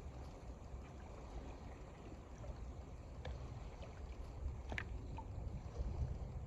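Strong wind buffeting the microphone in an uneven low rumble, over small waves lapping at the lake shore. A couple of faint ticks come through, the clearest just under five seconds in.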